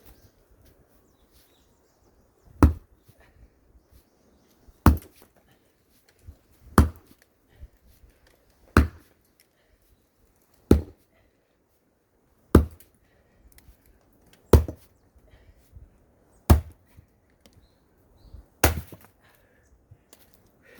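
Axe chopping firewood: nine sharp blows on the wood, evenly spaced about two seconds apart.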